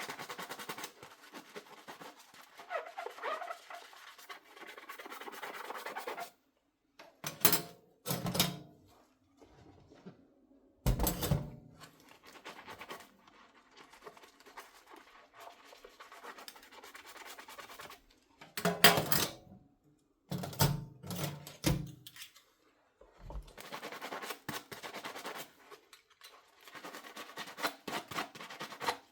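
Dishes being hand-washed in a sink: a sponge scrubs with a scratchy rubbing sound, broken by several sharp knocks and clinks as dishes are handled and set down, the loudest about two-thirds of the way through.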